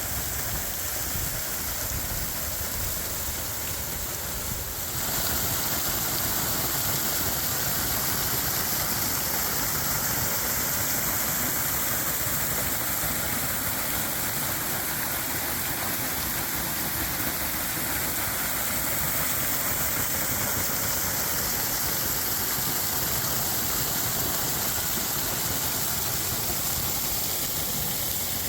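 Waterfall flowing: a steady rush of falling water that gets a little louder about five seconds in.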